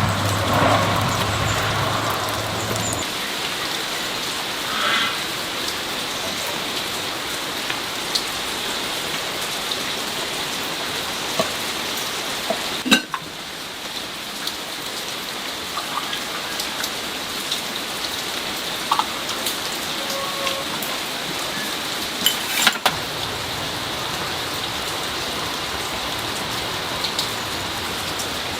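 Steady rain falling, with scattered sharp ticks and drips. A low hum stops about three seconds in.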